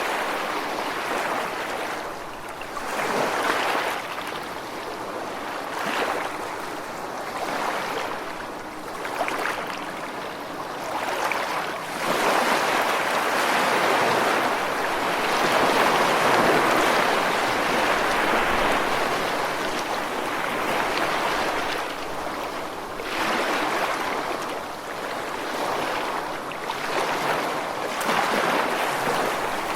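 Ocean waves breaking and washing on a shore, a continuous rush of surf that swells and eases every few seconds, fullest and loudest in the middle stretch.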